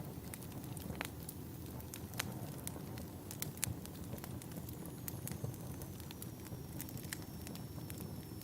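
Wood fire burning in a fireplace, crackling with irregular sharp pops and snaps over a steady low rumble of the flames. A faint high whistle, slowly falling in pitch, comes in about halfway through.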